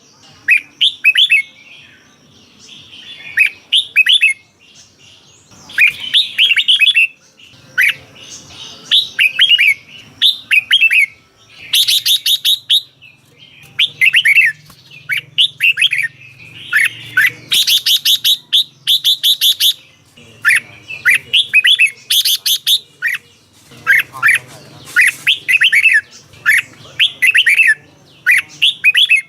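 Red-whiskered bulbul singing: short, quick whistled phrases repeated every second or two, with a few bursts of sharp, very high chattering notes along the way.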